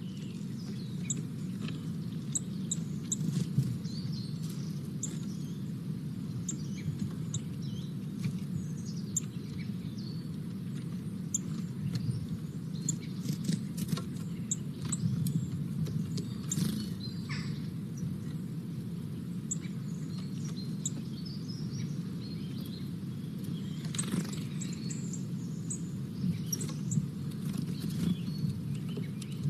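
Outdoor ambience: small birds chirping in short, high notes scattered through, over a steady low rumble.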